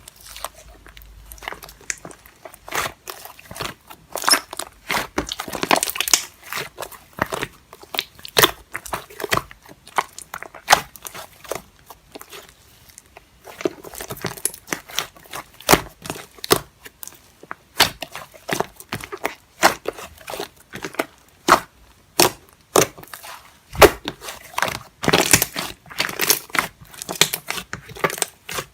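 Close, irregular crackling and crinkling: many sharp clicks and rustles in quick uneven runs, with a quieter stretch about halfway through.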